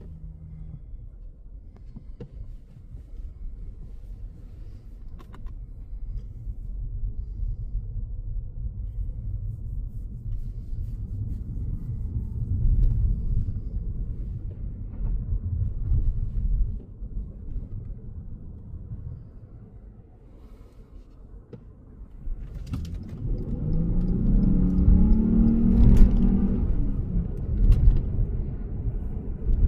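Low road and tyre rumble inside the cabin of a Lexus GS450h hybrid, swelling and easing with speed. About 23 seconds in, the car's 3.5-litre V6 is heard rising in pitch under hard acceleration for a few seconds, then easing off.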